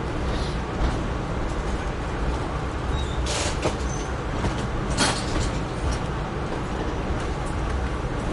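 Amtrak Northeast Regional passenger train rolling along the track with a steady low rumble. Two short bursts of hiss come about three and five seconds in.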